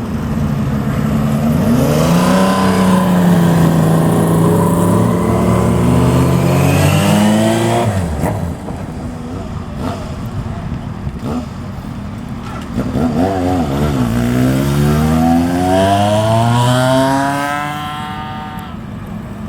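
Two classic motorcycles riding off one after the other, engines revving. The first swells about two seconds in, holds its pitch and drops away sharply near eight seconds; the second rises steadily in pitch from about thirteen seconds and fades near the end.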